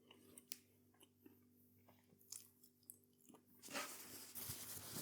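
A person chewing a mouthful of chip butty, with faint soft crunchy clicks. About three and a half seconds in, a louder continuous rustling noise starts.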